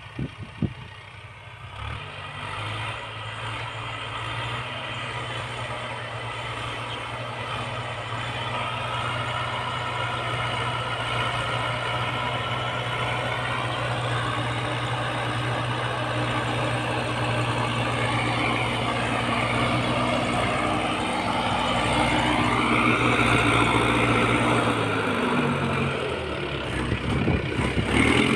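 Tractor engine running steadily while pulling a rotavator through a field, its note rising and getting a little louder about three quarters of the way through.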